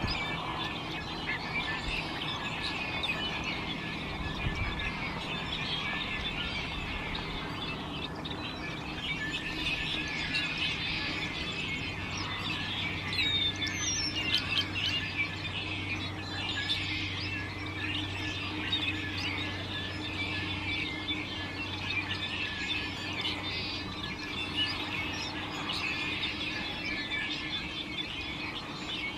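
Dense, continuous chorus of many wild birds chirping and calling over one another, with occasional squawks.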